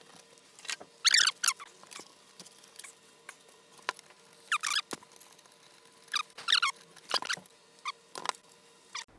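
Short, high squeaks that slide downward, in several separate bursts, with light clicks between them, as a power supply is worked loose and pulled out of a PC case.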